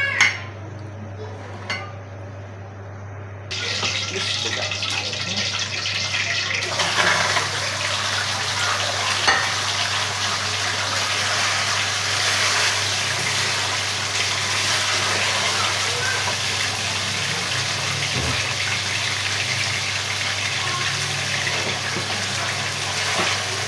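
Raw chicken pieces sizzling in a hot karahi on a gas burner as they are stirred with a wooden spoon. The sizzle starts a few seconds in after a couple of knocks, grows louder about seven seconds in and then holds steady, with an occasional click of the spoon against the pan.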